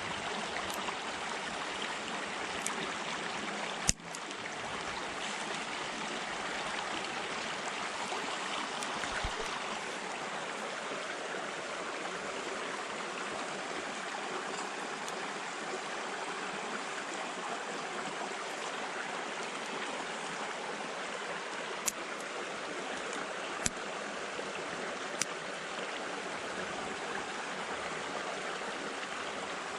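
Small twig fire crackling in a mini fire pit: a few sharp pops, the loudest about four seconds in, over a steady rushing hiss.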